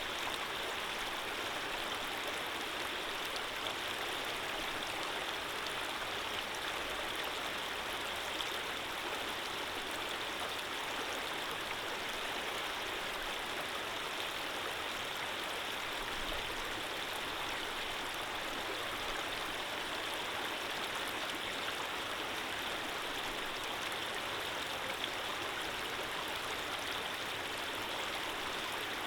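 Running water flowing steadily, an even, unbroken rushing with no change in level.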